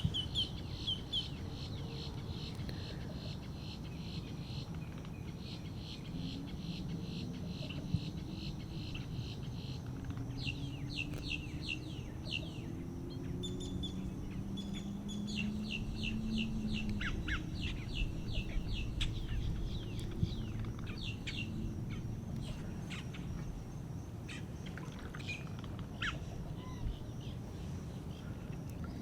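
Small birds chirping and trilling in quick series of high notes, over a steady low background rumble.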